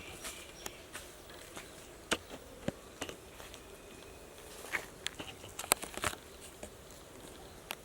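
Faint steady buzzing of insects, broken by scattered sharp clicks and crackles, most of them bunched together a little after the middle.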